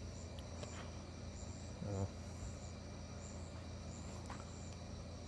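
Crickets chirping in short, repeated high-pitched pulses over a steady low hum.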